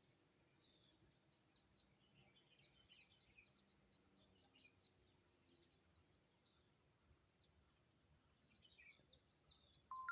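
Faint birds chirping: many short, high calls overlapping over a low background hiss, with a louder clear whistled note right at the end.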